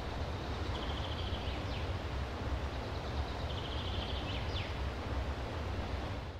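Steady outdoor background noise with a low rumble, and a small bird calling twice, each call a quick high trill followed by a short sweep.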